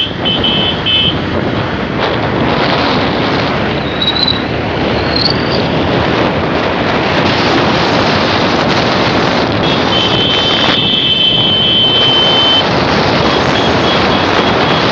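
Wind rushing over the microphone and road noise of a motorcycle in motion. A steady high tone sounds for about three seconds past the middle.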